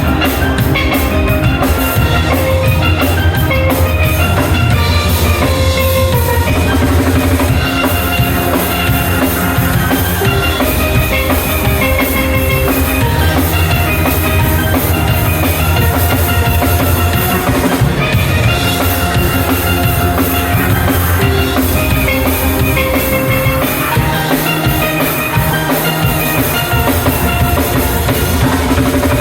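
Steel band playing: steel pans ringing out the melody and chords over a drum kit keeping a steady beat.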